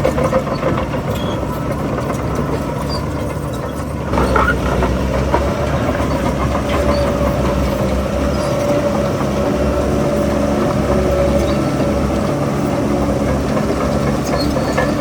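Heavy diesel engine of earthmoving machinery running steadily, getting louder and working harder from about four seconds in.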